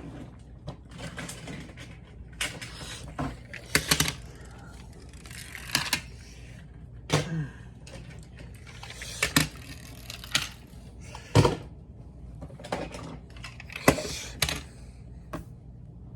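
A series of irregular sharp clicks and knocks with rustling between them, as of small hard objects being handled and set down.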